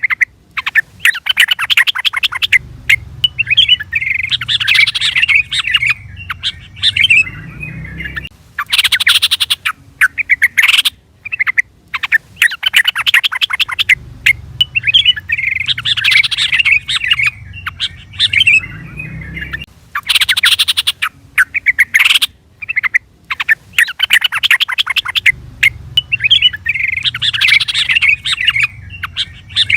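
Yellow-vented bulbul (trucukan) calling, rapid bubbly chattering phrases with sharp chirps between them, repeating in the same cycle about every eleven to twelve seconds as a looped calling track. A low hum sits under the longer phrases.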